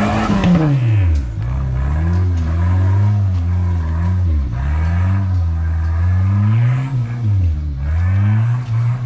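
Rock crawler's engine revved repeatedly under throttle, its pitch climbing and dropping again about every second or two as the rig works up an obstacle.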